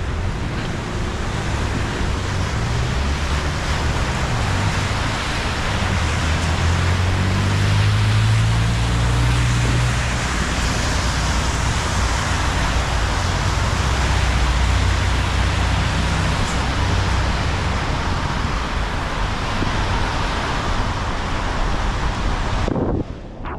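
Wind buffeting a GoPro's microphone while riding, a steady loud rush with a deep, wavering rumble underneath; it cuts off abruptly near the end.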